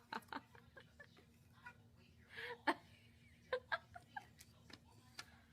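Quiet human laughter and giggling in short bursts, with a few brief sounds between.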